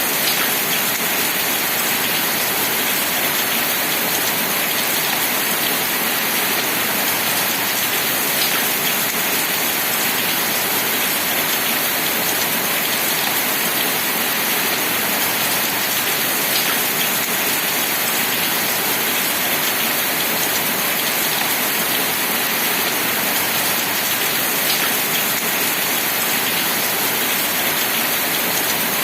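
Steady rain falling, an even, dense hiss with a few separate drop ticks standing out now and then.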